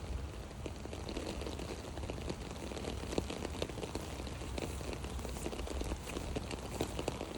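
Rain falling on an umbrella: many irregular drop ticks over a steady hiss.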